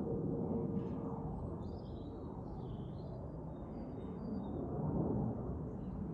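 A steady low rumble, with a few faint, high bird chirps about two to four seconds in.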